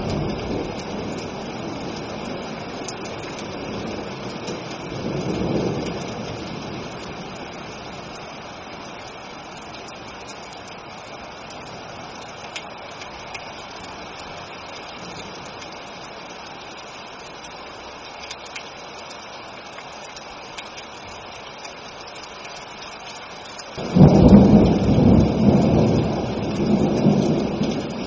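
Thunderstorm: steady rain hiss with a low thunder rumble that fades after the start and swells briefly about five seconds in, then a sudden loud peal of thunder near the end that rolls on for a few seconds.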